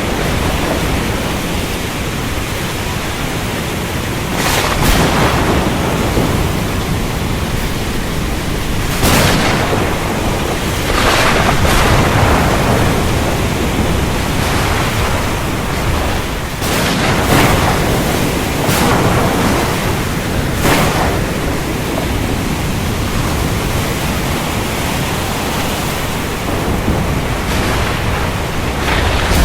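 Heavy rain pouring steadily, with sharp thunder cracks breaking through several times, mostly in the middle stretch.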